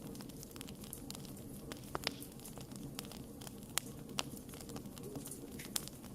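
Wood campfire burning with a steady low hiss and rumble, and sharp irregular crackles and pops as the burning wood snaps, the loudest about 2, 4 and 6 seconds in.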